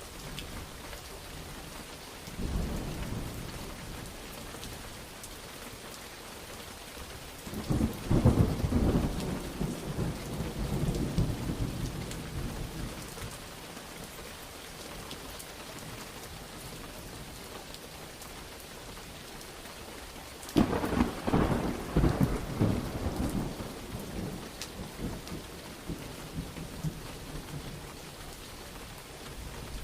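Steady rain with rolling thunder: a low rumble a couple of seconds in, then two louder thunderclaps, one about 8 seconds in and one about 21 seconds in, each rumbling away over several seconds.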